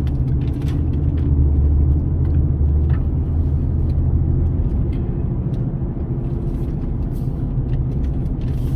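A car driving, heard from inside the cabin: a steady low engine and road drone, heavier for the first few seconds and then a little lighter.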